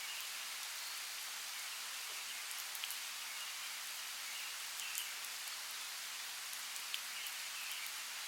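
Steady rain falling in a rainforest: an even hiss with scattered sharper drops, two louder drips standing out about five and seven seconds in.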